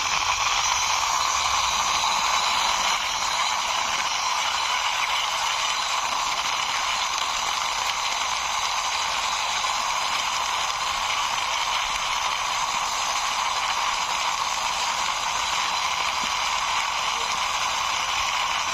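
Toy Power Beku vehicle pushed along by hand, giving a steady, unbroken whirring rattle as it rolls.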